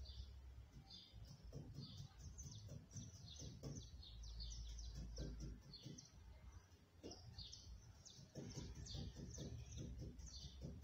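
Faint chirping of small birds: many short chirps in quick succession, over a low background rumble.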